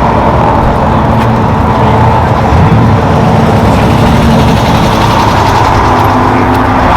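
Engines of Subaru cars running steadily as they pull out.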